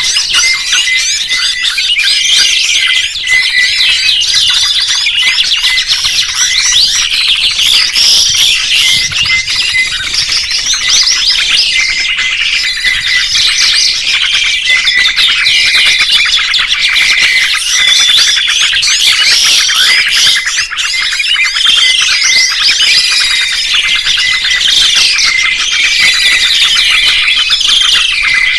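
Songbirds chirping and singing without a break: a dense chorus of quick twittering chirps, trills and whistled phrases from several birds at once.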